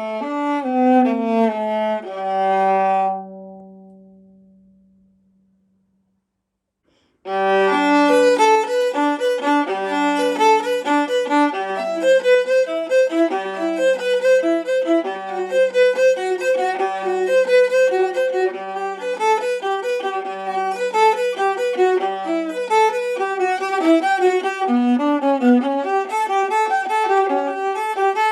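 A solo 16-inch antique Italian viola, labelled Giovanni Pistucci, Naples c1898, being bowed. A phrase ends on a held low note that fades away into a second of silence. A running passage then begins, returning again and again to a repeated low note beneath moving higher notes.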